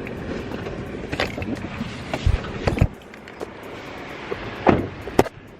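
Rustling, knocks and thumps of someone moving about and climbing out of a parked car, with two heavy thumps a little past halfway, after which the background turns quieter, and two sharp knocks near the end.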